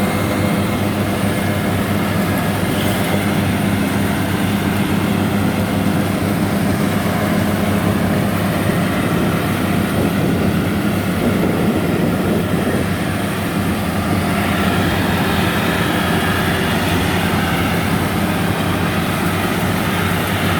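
Rice combine harvester's diesel engine running steadily under load while cutting a waterlogged rice field, a continuous low hum with mechanical clatter over it.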